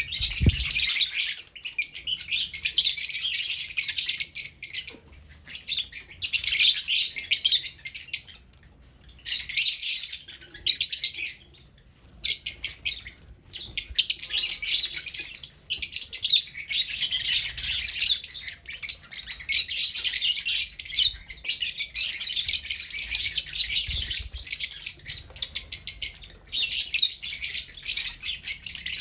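Lovebirds chattering: rapid high-pitched chirps in long runs, broken by a few short pauses.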